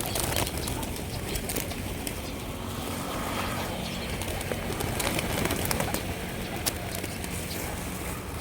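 A large flock of hungry birds crowding in to feed on scattered food: a busy mix of bird calls and scattered short clicks and flutters over a steady low background rumble.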